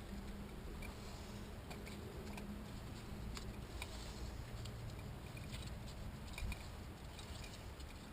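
Faint scattered clicks and light rattling of small parts being handled during engine assembly, over a steady low hum.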